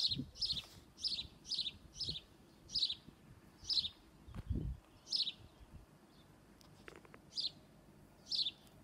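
A small bird repeatedly calling a single short, high chirp that slides downward in pitch, roughly once every half-second to a second, with a pause of about two seconds in the middle.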